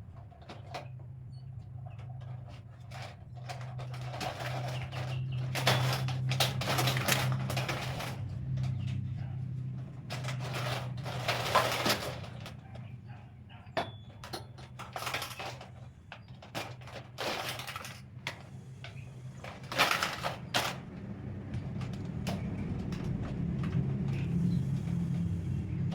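Parts of a shoe rack being handled and fitted together: irregular knocks, clicks and scraping, loudest around a quarter and halfway through and again about three quarters through, over a steady low hum.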